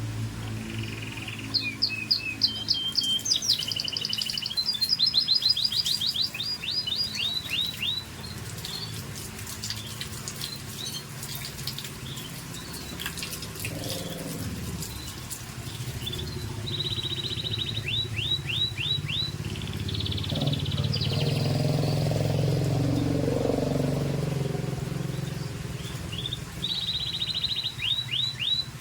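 Scotch Fancy canary singing in phrases of fast, repeated, falling notes, in three bursts: one at the start lasting several seconds, one past the middle and one near the end. A low rumble swells under it between the second and third bursts.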